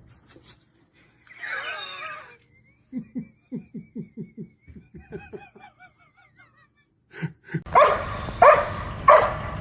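A dog barking in repeated strokes about half a second apart, starting near the end. Before it come a short warbling squeal and a run of quick, evenly spaced huffs that sound like snickering laughter.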